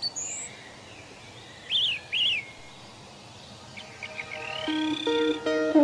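Birds calling in trees: scattered short chirps and whistled calls over a steady background hiss, with two louder chirps about two seconds in. Acoustic guitar music comes in near the end.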